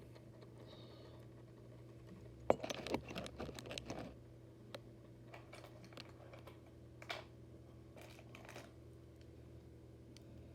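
Light clicks and taps of small diecast model motorcycles being handled and set down, a quick cluster about two and a half seconds in, then a few single clicks, over a steady low hum.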